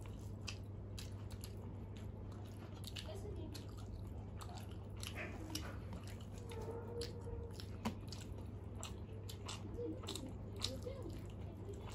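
Close-up chewing and lip-smacking of people eating rice and curry by hand, a run of small wet mouth clicks throughout, over a steady low hum.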